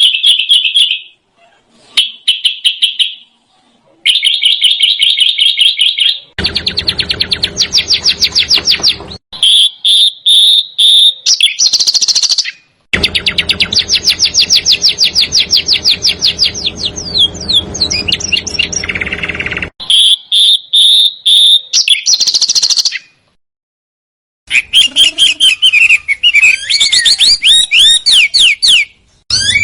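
Recorded songbird song: fast, dense rolling trills and rapid repeated high chirps in bursts of a few seconds, each broken off by an abrupt silent gap. Some bursts carry a low background hum.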